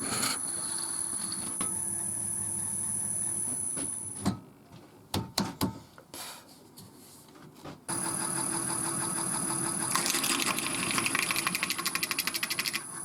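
Wood lathe running with a steady hum and high whine while a 25mm Forstner bit bores through the centre of a wooden blank. It falls quiet for a few seconds around the middle, with a few knocks, then starts again, and near the end a fast even chatter comes from the bit cutting.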